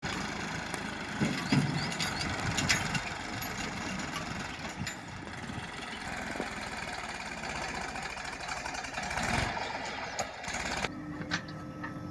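Tractor engine running steadily. The sound changes abruptly about eleven seconds in.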